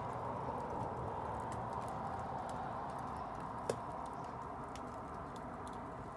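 Wood bonfire crackling: scattered small pops and snaps over a steady hiss, with one sharper pop a little past halfway.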